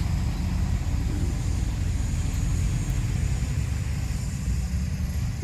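Diesel engine of heavy earthmoving equipment running steadily with a low rumble.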